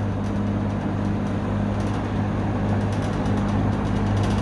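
Eskimo 20137 20-inch two-speed box fan (McGraw-Edison) running: a steady low motor hum under an even rush of air from the blades.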